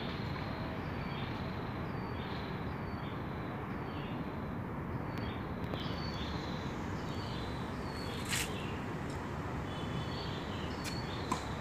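Open-air ambience with a bird chirping over and over, short high calls every second or so. A single sharp knock of a tennis ball about eight seconds in, and a few more sharp ball knocks near the end as play starts.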